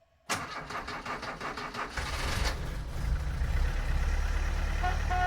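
Car engine cranking and catching, then settling into a steady idle; a horn note starts near the end.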